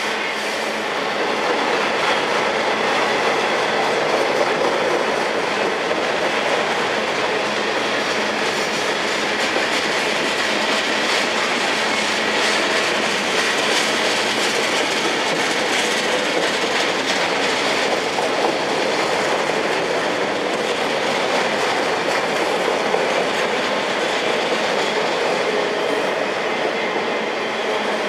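Freight train cars rolling past on the rails: a steady, loud noise of steel wheels running on track.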